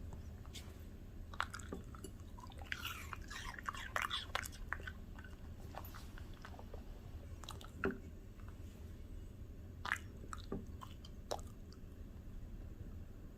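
A Bichon Frise dog chewing a crunchy raw snack: irregular crunches, a quick flurry about three to four seconds in, then a few louder single crunches near the eight- and ten-second marks.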